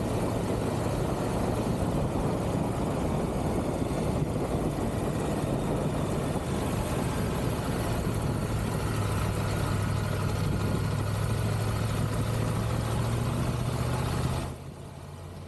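Triumph Tiger 1200 GT Pro's three-cylinder engine running steadily on the move, heard through wind and road rush while riding. A low, even hum from the engine grows stronger through the middle of the stretch, and the noise drops off suddenly about a second before the end.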